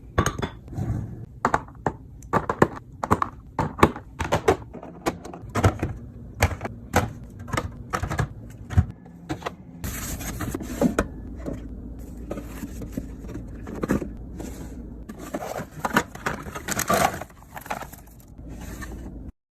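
Food containers and packages being handled and set down while a fridge is restocked: a quick, irregular run of clacks, knocks and scrapes of plastic and glass. A steady low hum comes in about ten seconds in.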